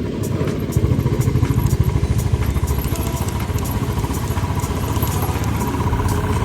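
Royal Enfield Bullet's single-cylinder engine running on the move, a steady stream of closely spaced low exhaust pulses that grows louder about a second in.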